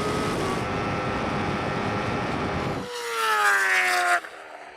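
Vehicles racing flat out: a steady rush of wind and road noise with a faint engine tone slowly rising in pitch. About three seconds in, the sound changes to a whining engine note falling in pitch, like a vehicle going past, which then drops away.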